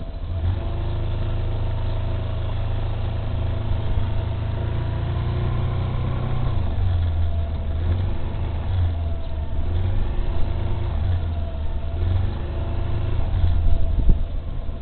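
Suzuki Burgman Street 125 scooter's engine running, steady at first, then rising and falling in pitch from about halfway in as the speed changes. A sharp knock near the end.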